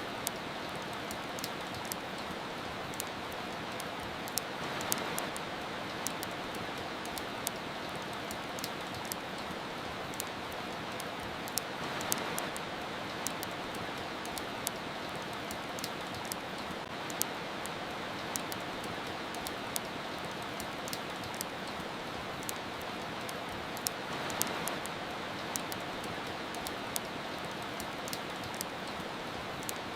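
Steady rain hiss mixed with a wood fire crackling: frequent sharp, irregular pops over the rain, which swells a little a few times.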